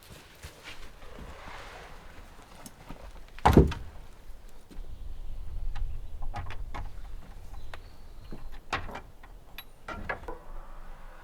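Scattered knocks and clicks, with one loud, heavy thump about three and a half seconds in and a low rumble for a couple of seconds after it.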